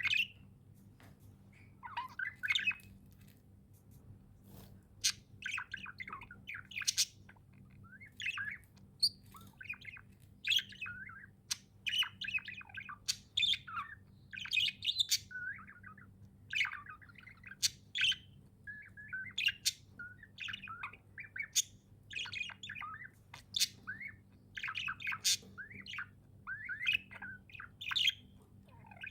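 Budgerigars (budgies) chirping and warbling, with short calls one after another throughout and an occasional squawk, over a faint steady low hum.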